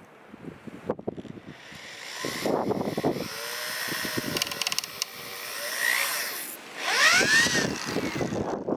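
Power drill running in bursts, its motor pitch rising and falling as it speeds up and slows, loudest near the end, typical of driving or drilling for screws into wood.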